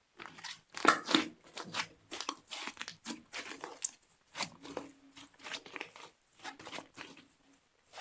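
Slime being squeezed and stretched by hand, giving a dense run of irregular sticky crackles and pops, loudest about a second in.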